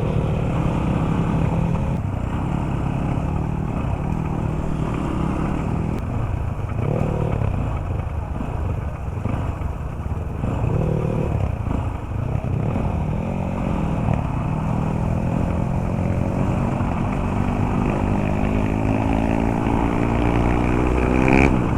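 Motorcycle engine running while riding, its note dipping and recovering, then climbing steadily in pitch over the last few seconds as it accelerates.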